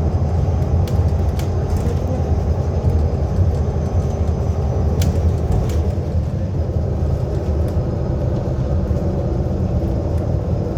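Inside a MAZ-107 city bus under way: steady engine and road rumble, with a few brief rattles.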